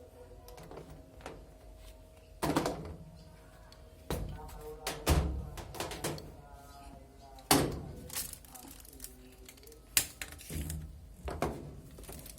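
A series of separate knocks and thuds, about half a dozen, over a faint background of music and voices.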